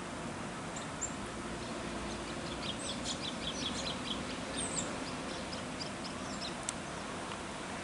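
Small birds chirping: a quick run of short, high chirps about a third of the way in, with a few single chirps before and after, over a steady outdoor hiss.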